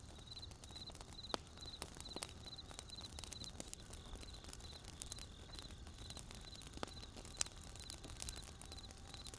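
A wood fire crackling, with scattered sharp pops, the loudest about 1.4 and 7.4 seconds in. A faint, high, pulsed chirping repeats a few times a second behind it.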